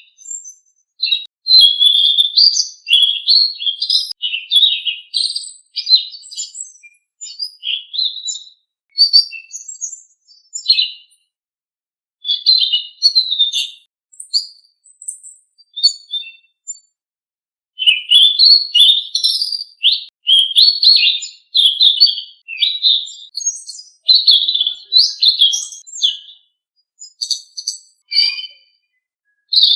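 Recorded song of a Selendang Biru songbird: fast phrases of high chirps and whistles, broken by a couple of short pauses, played as a master recording for tutoring caged birds.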